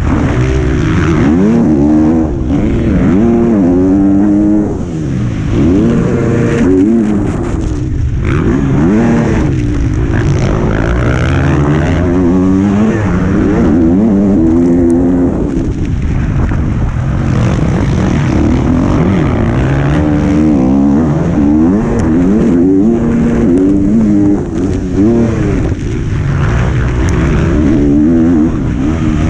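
125cc two-stroke motocross bike engine heard onboard at race pace, its pitch rising and falling every second or two as the rider opens and shuts the throttle and shifts through the gears, with wind buffeting the microphone.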